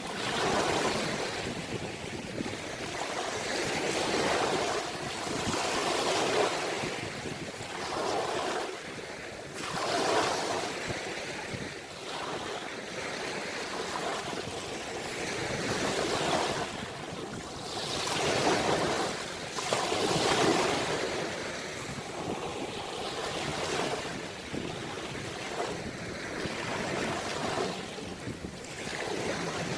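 Ocean waves breaking and washing in, a rushing surge that swells and ebbs every few seconds, with some wind on the microphone.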